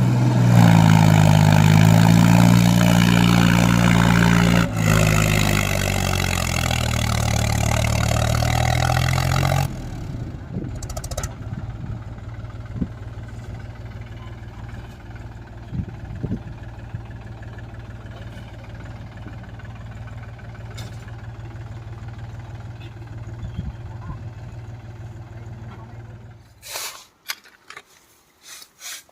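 Mahindra tractor's diesel engine running loudly, its pitch wavering slightly. About ten seconds in the throttle drops and the engine settles to a steady idle, which cuts off near the end, followed by a few light knocks.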